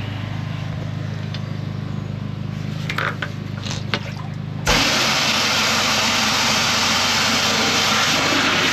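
The drainage unit's engine running steadily, with a few light clicks. About halfway through, a loud, even rushing hiss starts suddenly and carries on over the engine, as the machine is put to work.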